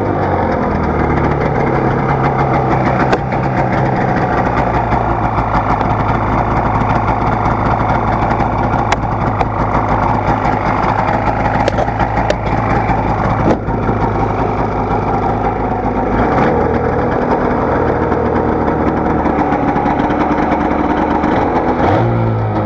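2009 Polaris Trail Touring's 550 two-stroke twin snowmobile engine idling steadily while it warms up after a cold start. The idle note shifts slightly about two-thirds of the way through.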